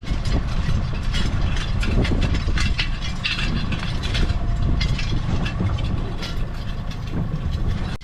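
Loud, steady low rumble of a boat trolling in a blizzard, its motor running under wind on the microphone, with frequent irregular sharp clicks and knocks.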